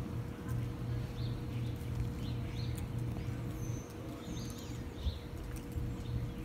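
A steady low hum with a faint constant higher tone underneath. Over it, small birds give short chirps every second or so.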